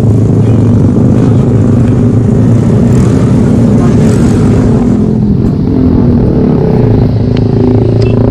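Motorcycle engine idling, loud and steady.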